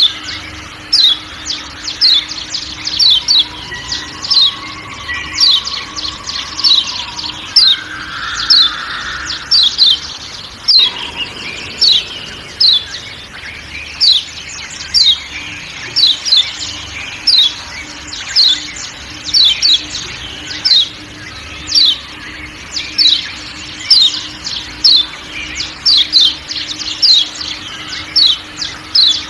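Yellow white-eye (kecial kuning) giving repeated sharp 'ciak ciak' calls, short falling chirps often in pairs, about one or two a second. Softer background bird calls and a faint steady hum sit underneath.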